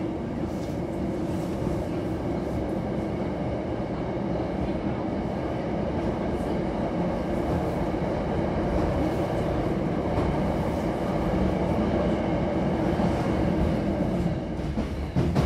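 Hankyu Imazu Line electric train running, heard from inside the car by its doors: a steady rumble of wheels and running gear with a steady hum, and a couple of sharp knocks near the end.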